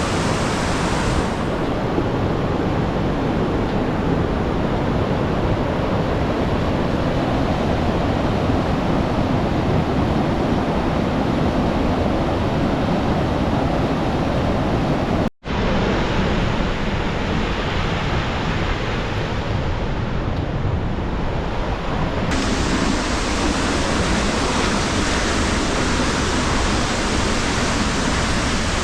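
Steady roar of a waterfall's rushing white water, loud and unbroken, cutting out for an instant about halfway through.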